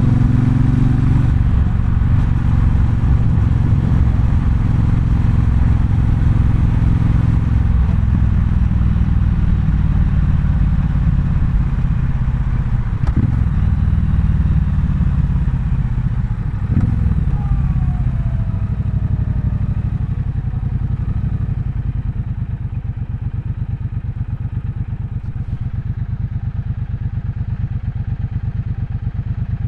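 Triumph Bonneville Bobber's 1200 cc parallel-twin engine running under way. It eases off over the first several seconds, with two short knocks near the middle, then settles to a quieter, even beat in the last third.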